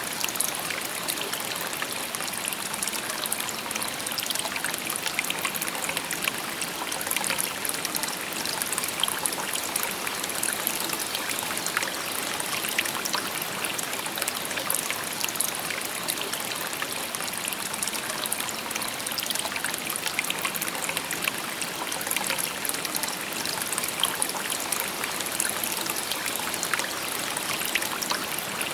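A shallow river babbling steadily over stones, with constant trickling and small splashes.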